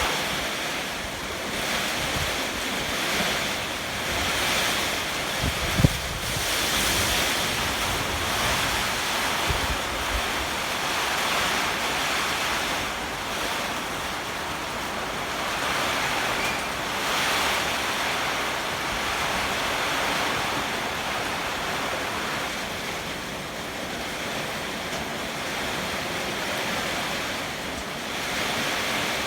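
Heavy typhoon rain and strong gusting wind: a steady rushing that swells and eases every few seconds. Wind buffets the microphone with low rumbles, and there is a brief thump about six seconds in.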